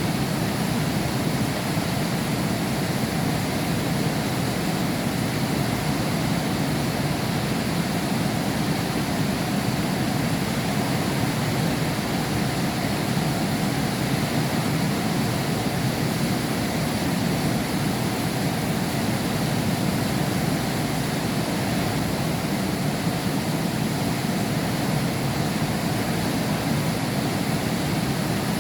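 Heavy rain heard through a window pane, a steady, even downpour with no distinct drops or thunder.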